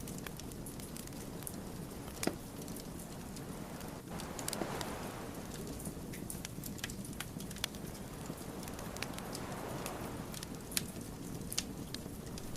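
Wood fire crackling: scattered sharp pops and snaps over a steady low rustle of burning logs, with the loudest pops about two seconds in and near the end.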